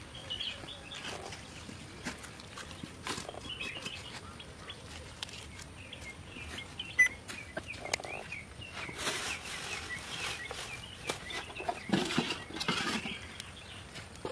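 Small birds chirping repeatedly, with scattered sharp clicks and knocks, the loudest about halfway through. These fit metal cooking pots being handled.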